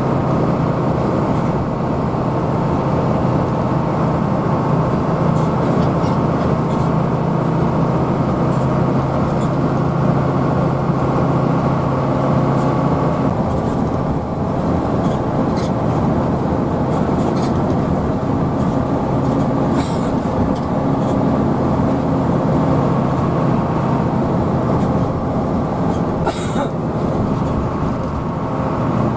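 Hino AK bus's diesel engine running steadily under way, heard from inside the cabin as a continuous low drone with road noise; the hum shifts in pitch about halfway through, and there are two faint clicks later on.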